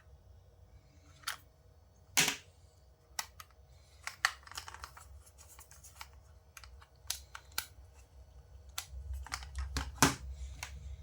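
Scattered light clicks and taps of small objects being handled, with a louder click about two seconds in and another about ten seconds in.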